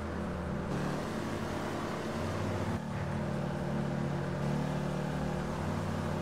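A pickup truck engine running steadily. Its pitch and level step abruptly between a few steady settings.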